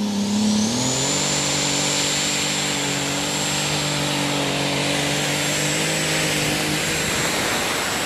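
Modified pulling tractor 'Rocket Science', rated at 4000 competition horsepower, running hard. Its engine revs rise in the first second and then hold steady and loud, with a thin high whine that climbs and then holds its pitch.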